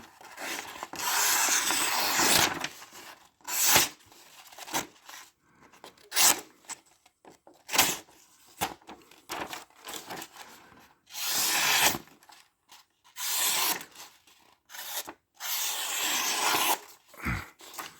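Freshly sharpened and stropped 14C28N steel knife blade slicing through paper. It makes several long slicing strokes of a second or two, with short, sharp cuts in between.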